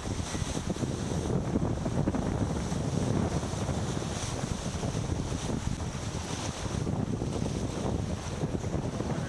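Wind buffeting the microphone on a sailboat under way, with water rushing along the hull. The gusts come and go in a continuous low rumble.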